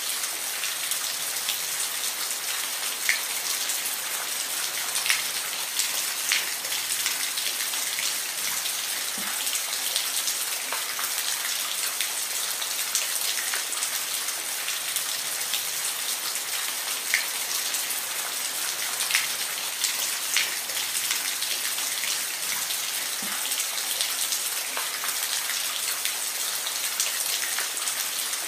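Steady rain falling, a high hiss with individual drops pattering sharply on a surface here and there.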